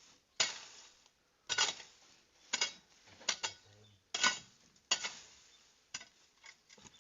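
Repeated strokes of a hand tool working the ground, each a sharp hit with a short scraping tail, about once a second.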